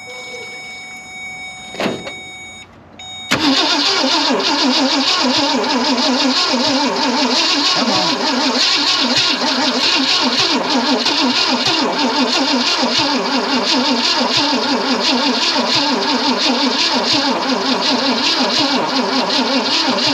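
1965 Ford Thunderbird's V8 cranking over on its starter for about seventeen seconds with an even, steady rhythm and not catching, after a single click about two seconds in. The owner suspects the engine is flooded or that the jump box is too weak to spin it.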